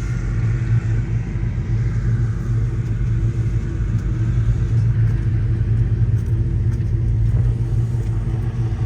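Can-Am Maverick X3 side-by-side's engine running steadily at an even pitch, heard from on board.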